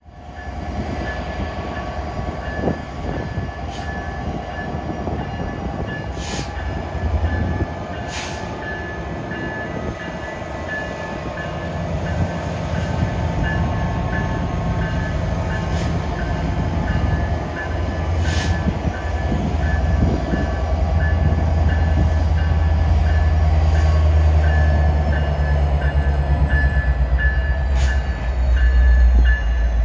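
Canadian Pacific SD70ACu diesel-electric locomotive leading a double-stack intermodal train as it approaches. Its engine rumble and the rolling noise grow steadily louder, deepest near the end.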